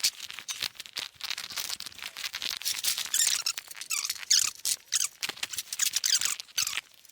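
Rusty steel nut and bolt threads squeaking in short, irregular high-pitched squeals, with scattered small metal clicks, as an old bolt is worked loose with a spanner.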